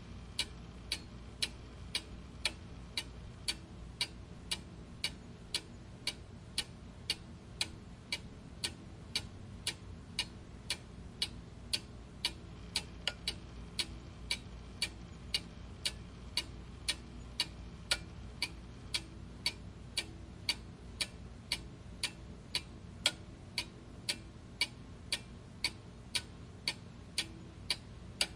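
Clock ticking steadily, about two sharp ticks a second, over a faint low background hum.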